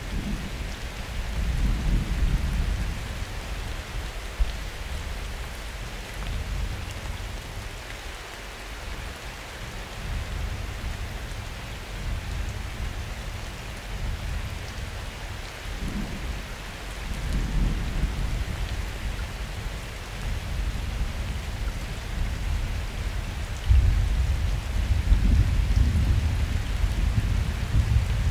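Steady summer rain falling, with distant thunder rumbling low three times: a couple of seconds in, about two-thirds through, and loudest near the end.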